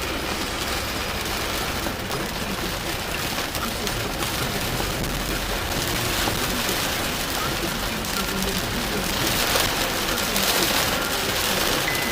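Heavy rain falling on a car's roof and windscreen, heard from inside the cabin as a steady hiss.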